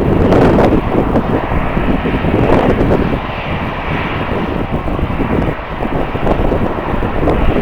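Jet airliner engines running, heard through strong wind buffeting the microphone with uneven gusts.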